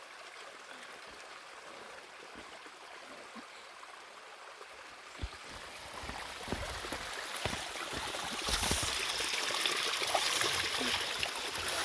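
Steady rushing of water that grows louder about halfway through, with a few soft low knocks.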